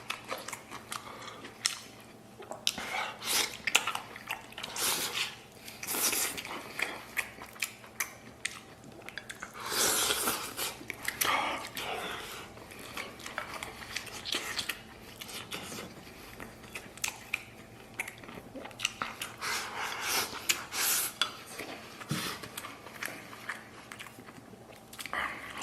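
Close-miked eating from a bowl of spicy stew: wet chewing and biting with irregular crunchy, smacking clicks, now and then louder.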